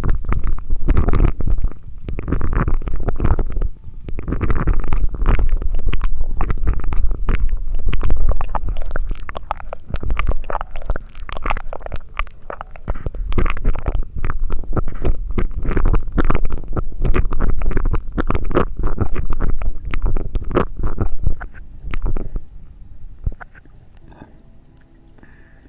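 Close-miked ASMR mouth sounds: dense, irregular crackling and popping over a low rumble, dying down about 22 seconds in.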